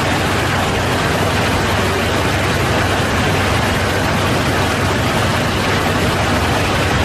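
Steady rush of airflow and engine noise inside an airliner's cockpit in flight, with a low, even hum beneath it.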